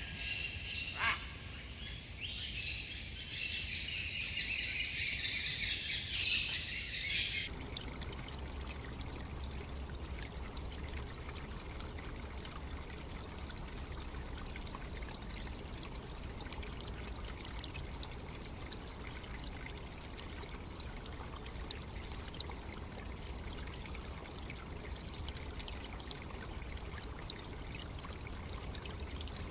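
Rainforest ambience: a dense, high insect chorus with a bird call about a second in, cut off abruptly after about seven seconds by the steady rush of flowing water with faint birds.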